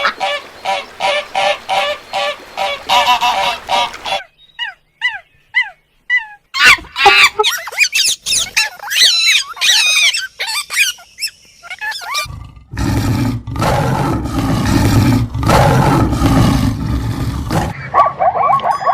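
A succession of animal calls: a run of rapid repeated calls, about four a second, then high falling chirps and a dense flurry of bird calls. About halfway through comes a harsh, noisy, low-pitched call lasting about five seconds, and near the end another run of rapid calls.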